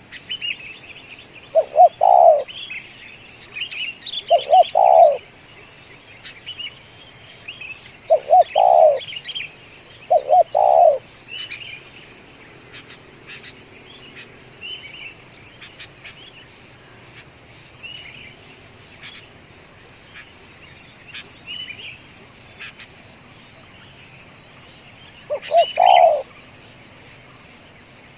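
Spotted dove cooing in short repeated phrases: five in the first eleven seconds, then two more near the end. Small birds chirp in between, over a steady high hiss.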